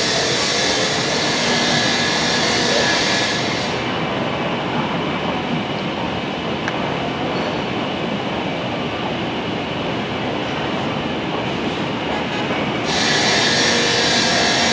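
Steady running noise of a train in motion, a continuous rumble and rattle. A high hiss drops away about four seconds in and returns near the end.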